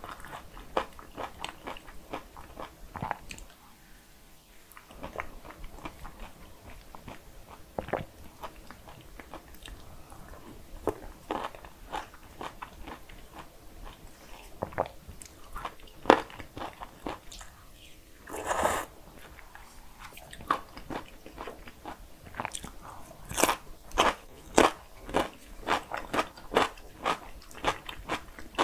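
Close-miked eating: a person chewing bacon cream pasta and sausage, with wet mouth clicks and crunches, settling into steady rhythmic chewing near the end.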